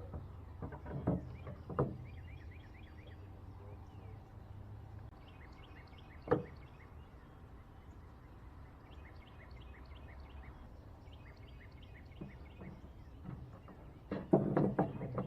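Outdoor ambience of repeated short chirping calls over a low steady rumble, broken by a few sharp knocks: a couple early on, a loud one about six seconds in, and a quick cluster near the end.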